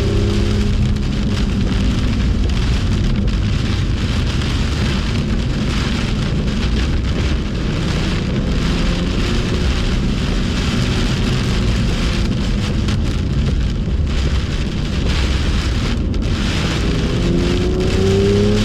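BMW M2's straight-six engine running under load through a steady hiss of rain and tyre spray on a soaked track. Near the end the engine pitch rises as it revs up.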